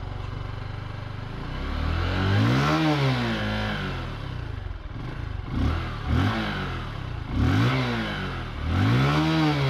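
Bajaj Pulsar 135 LS's 135cc single-cylinder 4-valve DTS-i engine idling, then blipped through several revs: one slower rev about two seconds in, then four quicker throttle blips that each rise and fall back.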